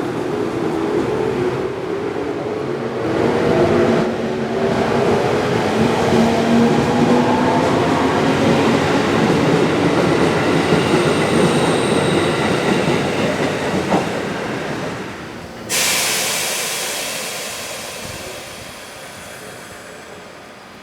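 Electric train pulling away from the station over the rails: its motor whine climbs steadily in pitch as it accelerates. About sixteen seconds in, a sudden loud hissing rush cuts in and then slowly fades.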